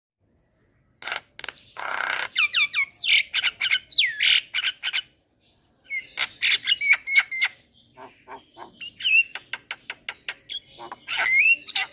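Javan myna singing vigorously: a fast, varied run of harsh squawks, sharp clicks and whistled gliding notes. It starts about a second in and breaks off briefly around the middle.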